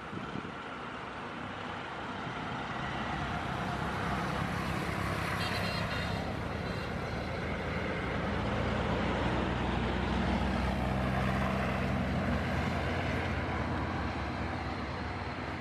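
Boeing 737-800's CFM56 jet engines running at taxi power: a steady rush with a low hum. It grows louder over the first half and eases off slightly toward the end.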